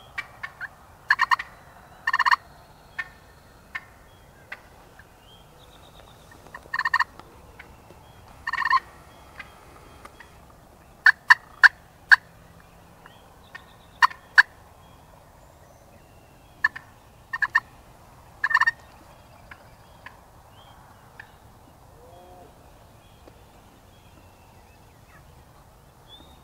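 Wild turkey gobbling repeatedly in short, rattling bursts at irregular intervals.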